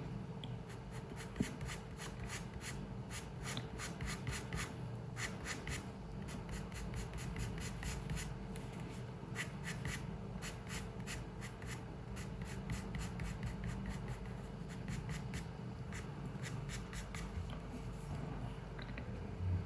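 Drawing tool scratching on paper in runs of quick, short strokes with brief pauses, over a steady low room hum.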